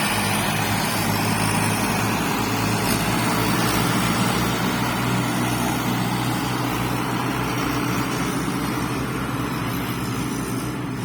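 Tractor engines running steadily, pulling a sugar cane trailer stuck in mud; the sound eases slightly near the end.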